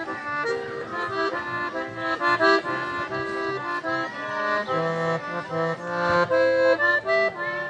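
Accordion playing a quick melody, with bass notes underneath in the middle, settling on a held chord near the end.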